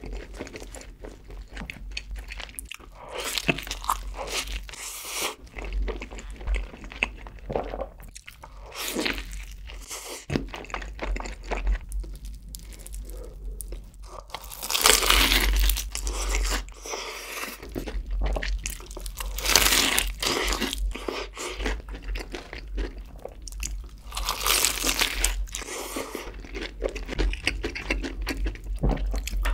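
Close-miked eating: a cheeseburger being chewed, then loud, crisp crunching as the crust of deep-fried chicken dipped in cheese sauce is bitten and chewed. The loudest crunches come about halfway through and again twice later.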